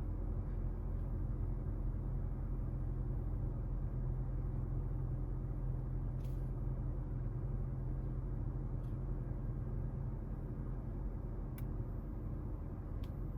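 Steady low rumble and hum inside a car's cabin, with a few faint clicks; a low steady tone in it fades out about ten seconds in.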